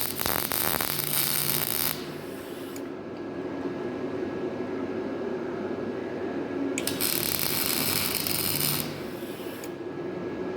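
MIG (semi-automatic) welder arc crackling in two short runs of about two seconds each, one at the start and one about seven seconds in, over a steady background drone.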